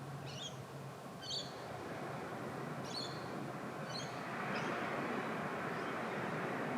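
Small birds giving short, high chirps about once a second, over a steady rushing background of wind and distant water that grows louder about four seconds in.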